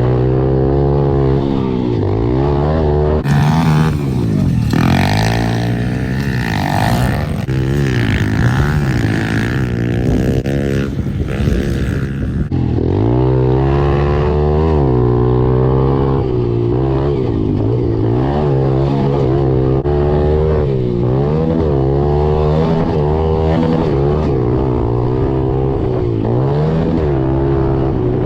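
Pit bike engine revving up and down over and over, the throttle opened and closed every second or two as the bike is ridden around a motocross track. A rushing noise sits on top for several seconds starting about three seconds in.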